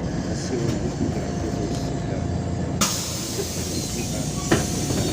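Inside a moving MAZ-203 city bus: steady low rumble from the engine and road. About three seconds in there is a sharp knock followed by a hiss, and another knock near the end.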